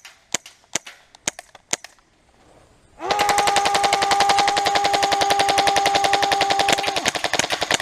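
Airsoft electric gun firing: a few single shots in the first two seconds, then a short pause, then a long full-auto burst from about three seconds in, the gearbox motor's steady whine over the rapid string of shots. The whine drops out near seven seconds while the shots continue.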